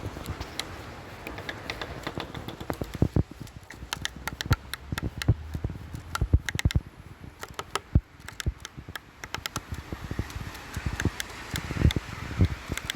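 Woodpecker pecking at wood: a string of sharp, irregular knocks, some coming in quick clusters.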